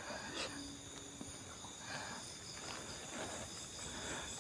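Night insects, crickets among them, chirring steadily in a high, thin chorus, with faint soft rustles about once a second.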